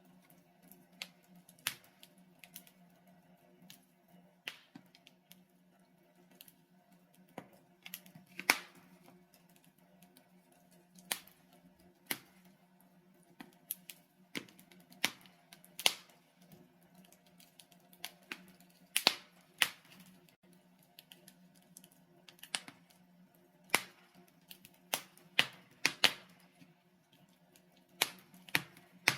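Logs burning in a fireplace, crackling with irregular sharp pops and snaps, some much louder than others, over a faint steady low hum.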